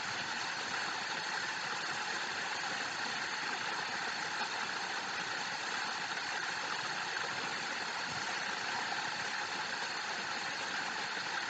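Steady rushing of a waterfall, an even noise with no rise or fall in level.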